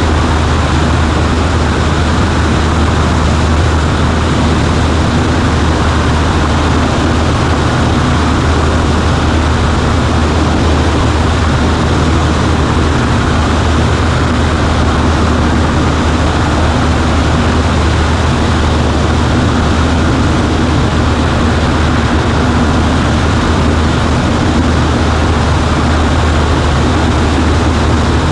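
Cessna 140A's four-cylinder Continental engine and propeller running steadily, a loud, even drone with a strong low hum.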